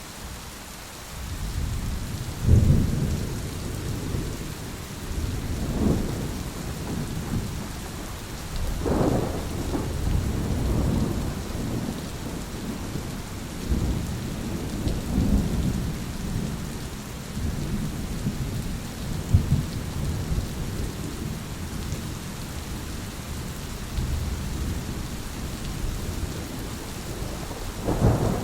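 Thunderstorm: rain falls steadily while thunder rumbles through most of it. The rumble builds about a second in and swells several times, and a sharper clap comes near the end.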